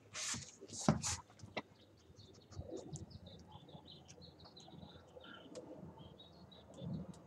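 Small birds chirping outside in many short, high notes, with a few clicks and a brief rustle in the first second or so.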